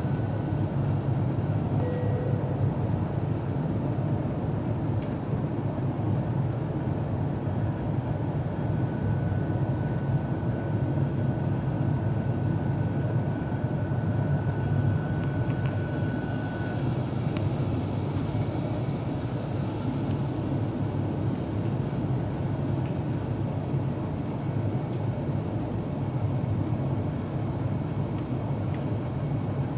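Airbus A350-900 passenger-cabin noise on descent: a steady low drone of airflow and engines. About sixteen seconds in, a thin faint tone stops and a slight higher hiss comes in.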